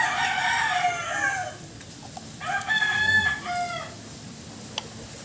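Rooster crowing twice, each crow lasting about a second and a half.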